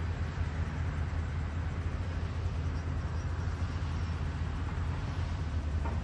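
CAT 320D hydraulic excavator's diesel engine running steadily under load, a constant low drone with no change in pace.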